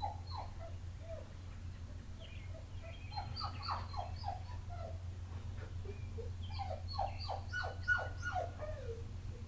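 A lonely dog whining and yelping in three bouts of quick, short, high cries, the sign of a dog left alone.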